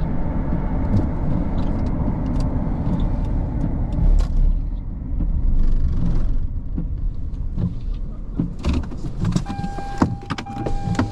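Low vehicle rumble with scattered knocks and clicks. Near the end, a steady electronic tone starts, broken by short gaps.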